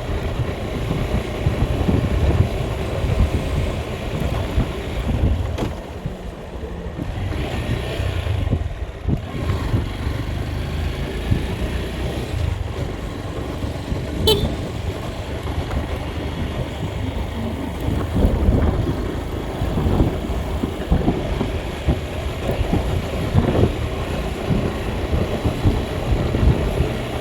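Vehicle driving along a road: a steady, continuous low rumble of engine and road noise, with one brief sharp tick about fourteen seconds in.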